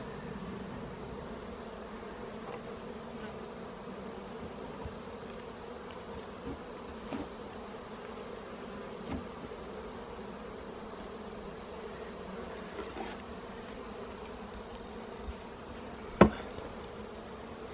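A honeybee colony buzzing steadily around an open hive. A few faint clicks, and one sharp knock near the end.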